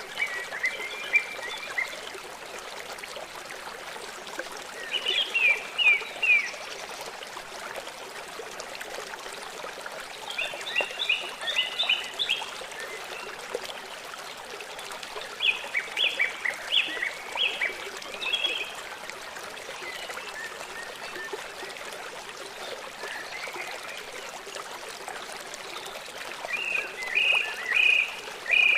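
Small songbird singing in short phrases of rapid high notes, five phrases several seconds apart, over a steady rush of running water.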